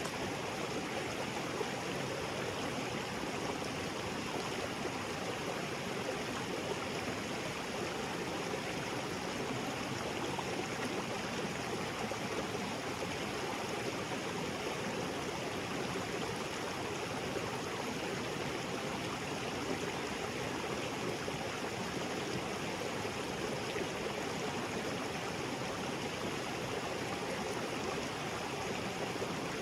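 Small waterfall splashing into a creek, with the water running over rocks in a steady, even rush.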